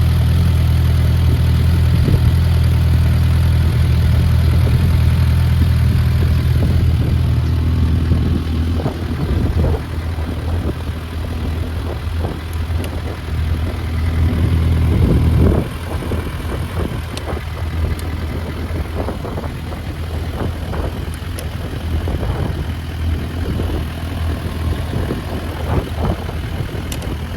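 Suzuki Bandit 650's inline-four engine running through a Black Widow aftermarket exhaust with dB killer, idling steadily. About eight seconds in the sound drops and turns rougher. It swells again around the middle, then falls back suddenly.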